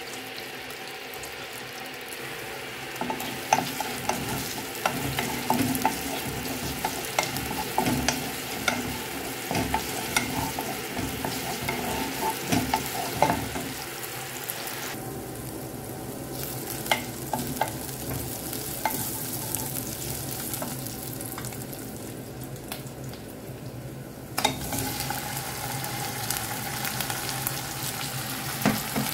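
Onion and aromatics sizzling in hot oil in a nonstick pan, with a wooden spoon stirring and knocking against the pan, most often in the first half. After a sharp knock near the end the sizzling grows louder, with chicken drumsticks frying in the pan.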